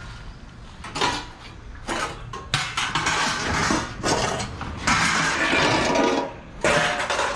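Small brass and copper scrap pieces clanking and clattering together as they are handled and dropped. The clatter starts about a second in and runs thickest through the middle.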